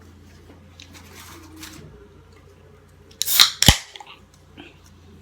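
Close-up mukbang eating sounds: faint mouth clicks and chewing, then a loud crunchy crackle about three seconds in that ends in one sharp knock.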